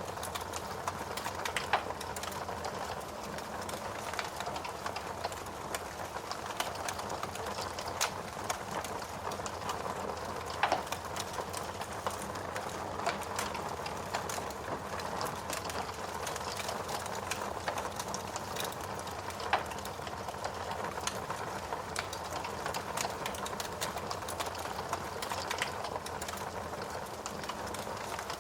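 Wood fire burning in a fireplace, crackling steadily: a dense patter of small crackles with a louder pop every few seconds.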